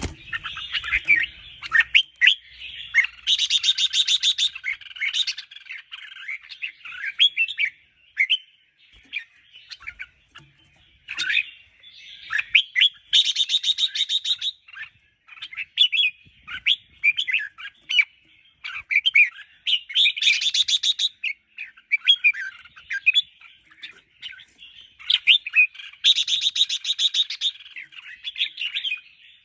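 Red-whiskered bulbuls singing in short, quick warbled phrases. About every seven seconds there is a louder burst of rapid rattling chatter.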